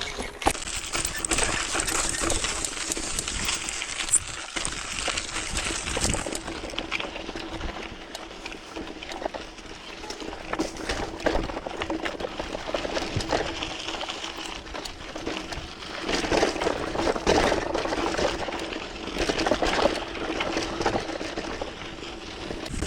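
Hardtail mountain bike ridden over a rough dirt trail: tyres crunching over dirt and stones, with many irregular clicks and rattles from the bike.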